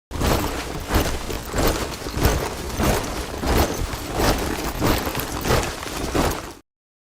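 A troop of soldiers marching in step, boots striking the ground together about twice a second. The sound starts abruptly and cuts off suddenly near the end.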